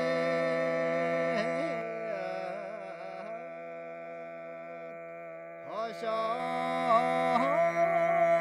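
Mongolian khoomei throat singing: one voice holds a steady low drone while a whistling overtone melody moves above it. The sound dips about five and a half seconds in and comes back louder with a short sliding note.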